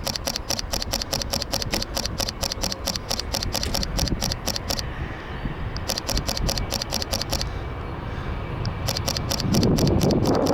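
Fujifilm X-T3 shutter firing in rapid bursts of continuous shooting, about eight to ten clicks a second: a long burst of about five seconds, a shorter one, then more near the end. A low rumble runs underneath and grows louder near the end.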